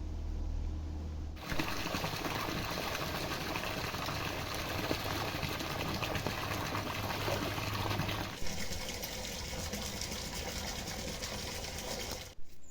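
Water running and splashing in a steady rush, starting abruptly just over a second in and changing in tone partway through.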